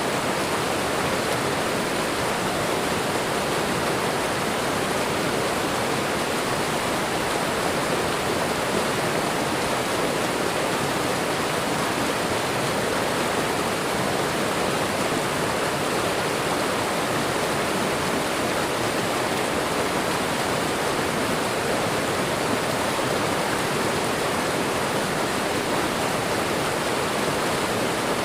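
Waterfall water falling and running steadily, an even rushing with no changes.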